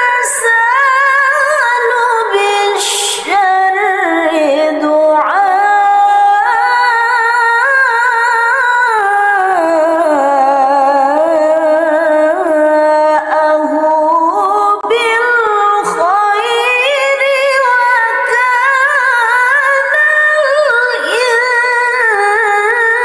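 A woman reciting the Quran in melodic tilawah style, one voice holding long ornamented notes with a wavering pitch, phrase after phrase, with short breaths between phrases.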